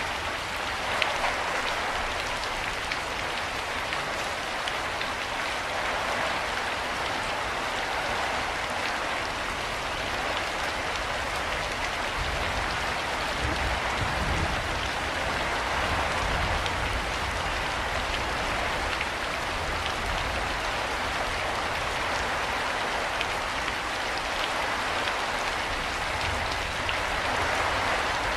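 Steady rain falling, an even hiss of many drops with fine individual drop ticks.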